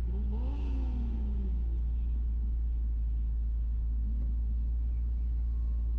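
Steady low rumble, like a vehicle running. Near the start a brief pitched sound rises and then falls.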